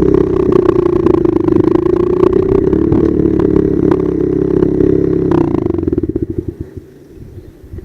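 Pit bike engine running at steady high revs, then the throttle closes about five seconds in and the revs fall, the exhaust breaking into separate rapid pops as it slows and fades.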